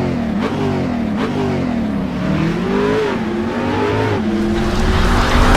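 Car engine revving, its pitch climbing and dropping several times in quick succession, then holding a steadier note near the end.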